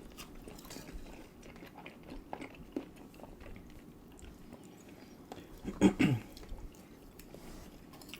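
Close-miked chewing and eating: small mouth clicks and smacks throughout. About six seconds in, a brief louder sound that falls in pitch.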